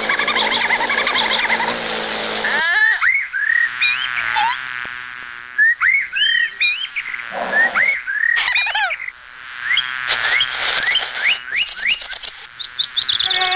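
Animal call sound effects: a dense chorus of calls that cuts off about two and a half seconds in, then a string of short chirps that rise and fall in pitch, with a brief high buzz near the end.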